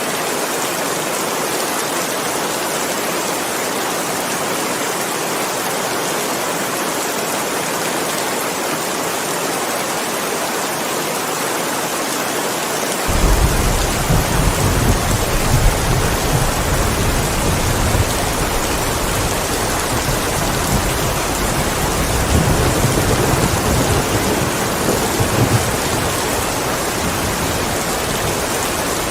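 Steady heavy rain hissing. About halfway through, a low rolling rumble of thunder comes in suddenly and swells and fades for several seconds under the rain.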